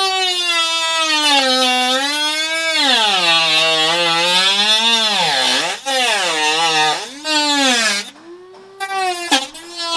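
Dremel rotary tool cutting, its high whine sagging in pitch as the bit bites under load and climbing back as it eases off, over and over. It stops about eight seconds in and runs again in short bursts near the end.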